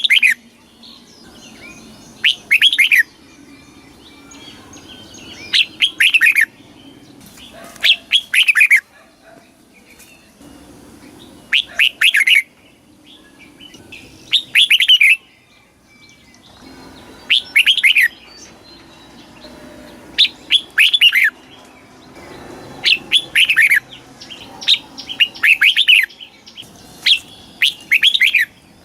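Red-whiskered bulbul singing: short, bright phrases of a few quick falling whistled notes, repeated about every two to three seconds.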